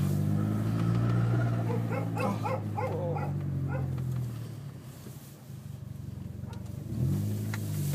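Opel Corsa D OPC's turbocharged four-cylinder engine heard from inside the cabin, droning steadily under load, then easing off as the car slows. The revs rise again near the end.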